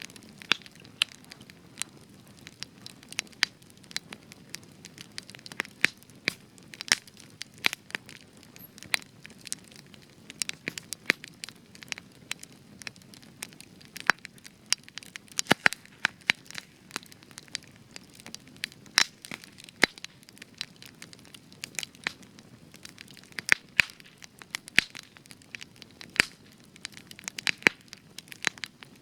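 Spruce wood campfire burning, with frequent sharp, irregular pops and crackles over a low steady hiss of the flames.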